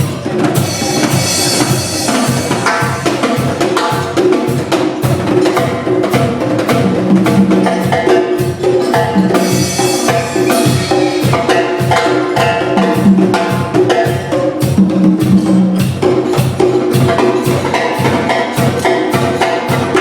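Band music with a steady, fast percussion beat under sustained pitched instruments, played through a sound system at a sound check.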